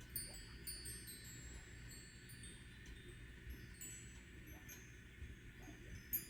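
Faint, high tinkling chimes: several thin ringing notes just after the start that die away, with more chiming near the end.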